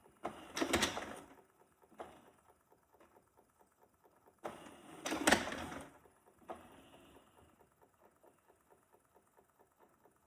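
Shark robot vacuum running with faint, fast mechanical ticking and whirring from its drive, broken by two louder bursts of noise about a second in and about five seconds in; the owner thinks a drive wheel is broken.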